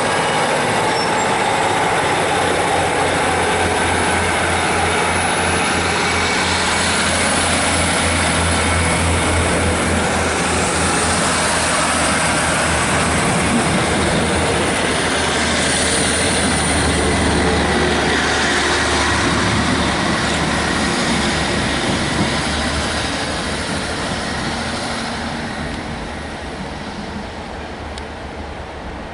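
A passenger train running past a station platform: loud, steady rail noise over a low engine hum that fades away over the last several seconds.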